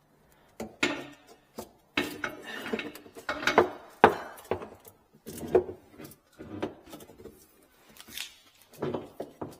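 Irregular knocking and clattering of hard objects being handled: about a dozen sharp knocks, the loudest about four seconds in.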